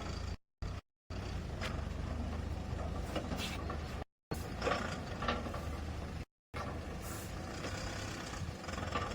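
Diesel engine of heavy earth-moving machinery running steadily, with scattered metallic clanks; the sound drops out completely for brief moments several times.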